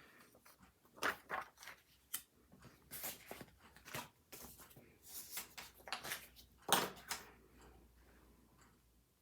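Planner and stationery handling on a desk: a run of short rustles, clicks and scratchy taps. The loudest come about a second in and near seven seconds, and it dies down near the end.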